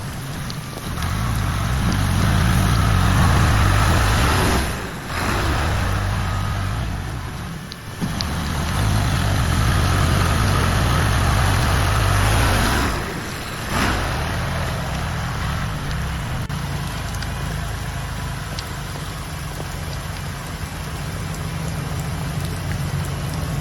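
Diesel tractor engine running steadily at work, with heavy rain falling. The sound drops out briefly twice.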